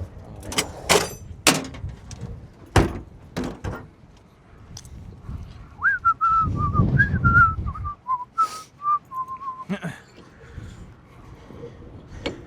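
A person whistling a short tune in the middle, a few seconds of stepping notes, among scattered metal clanks and knocks.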